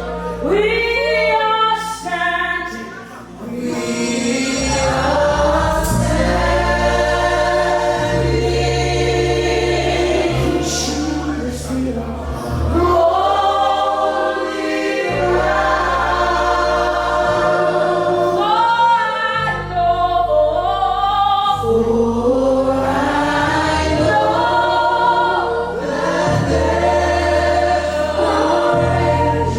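Worship band and singers performing a gospel song: several voices sing sustained lines together over held bass and keyboard chords.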